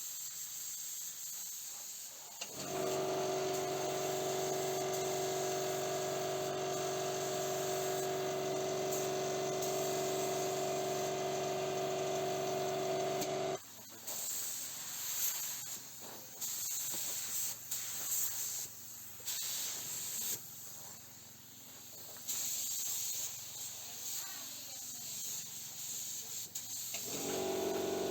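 Paint spray gun hissing as a thin tack coat of clear coat is sprayed: a long steady spray with a steady hum under the hiss, then a string of short on-off bursts, and a steady spray again near the end.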